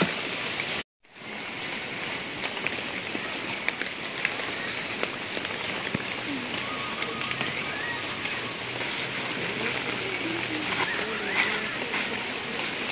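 Steady hiss of light rain falling on garden plants and leaves. It cuts out completely for a moment about a second in.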